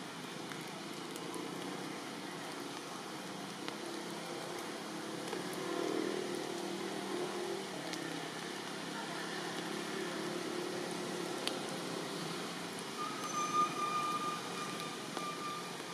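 Steady patter of rain. A low hum, like a passing vehicle, swells through the middle and fades. A short, thin, steady tone sounds near the end.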